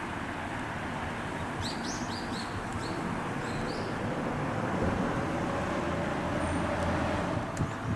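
An electric commuter train running at the station, a steady rumble that grows slowly louder with a faint motor whine rising in pitch over the second half. Small birds chirp a few times near the start.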